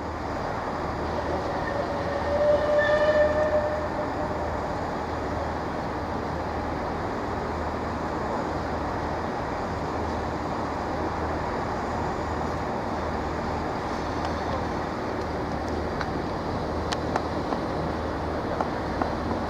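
Class 47 diesel locomotive with a steam locomotive coupled behind it, moving as a light engine: steady running noise with a low throb. A brief held tone sounds about two seconds in, and a few sharp clicks come near the end.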